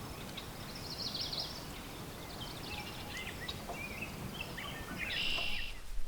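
Songbirds singing: a quick high trill about a second in, then scattered chirps and short phrases, and a buzzy note near the end, over a steady background hiss.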